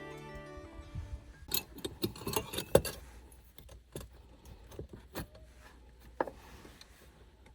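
Background music fading out, then light clicks and clinks of small hard objects being handled, busiest about two seconds in, with a few scattered taps after and one short ringing clink near the end.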